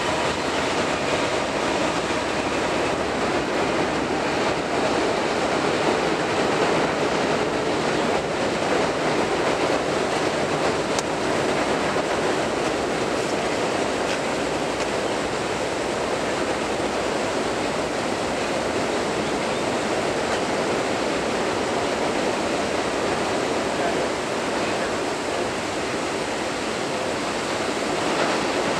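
Steady roar of a freight train rolling across a high steel truss bridge, the wheels of its double-stack intermodal container cars running on the rails.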